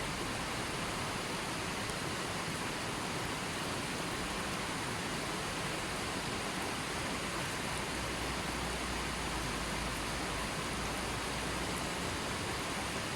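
Steady, even rushing of water, unchanging throughout, with no separate drops, splashes or other events.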